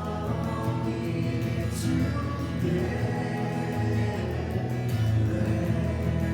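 Christian worship music: a group of voices singing over a band, with cymbal hits.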